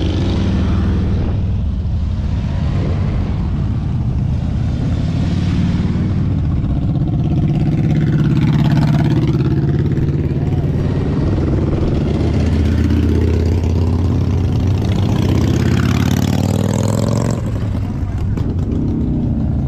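A line of motorcycles riding past one after another, engines revving loudly, with individual bikes sweeping by about halfway through and again near the end.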